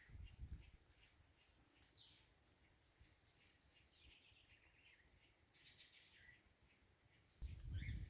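Faint chirps and short calls of several small birds, scattered throughout. A low rumble comes in near the end.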